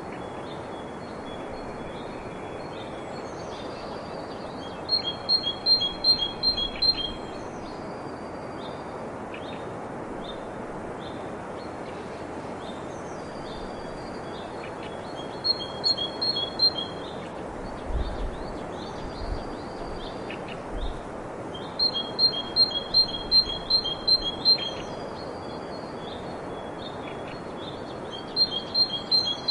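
A songbird singing in phrases of rapid, evenly repeated high notes, about four a second, each phrase lasting about two seconds and coming four times, over a steady background hiss.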